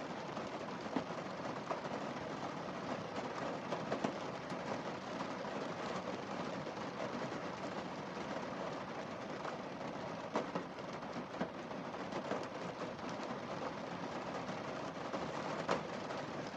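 Steady rain falling on a car windscreen: an even hiss with scattered louder taps of single drops.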